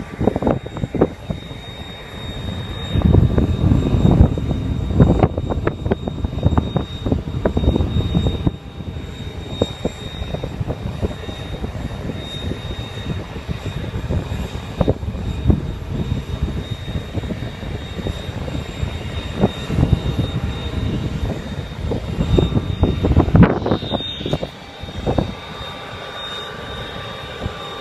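Cessna 206 single-engine propeller plane's piston engine running, with a thin steady whine above the rumble. The level swells and falls unevenly, loudest a few seconds in and again shortly before the end.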